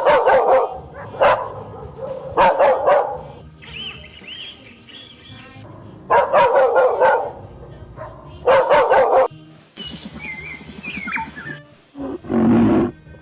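Dog barking in repeated bursts of several barks, with music underneath. Near the end a different animal gives one loud, low call.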